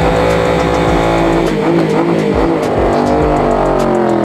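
A loud vehicle engine revving, its pitch sagging through the middle and climbing again near the end, mixed with music that has a deep bass beat.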